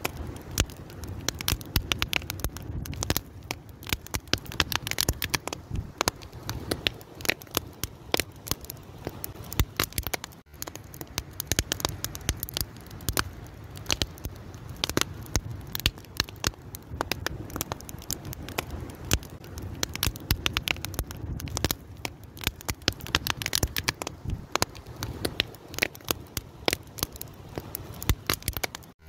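Open fire crackling steadily, with dense irregular pops and snaps over a low rumble of flame.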